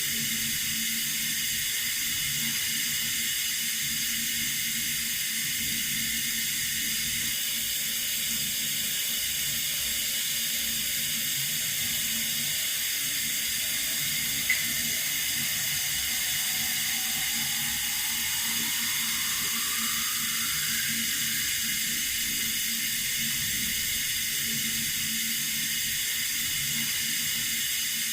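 Running water, a steady even hiss. A single small click about halfway through, followed by a faint whistle rising in pitch over several seconds.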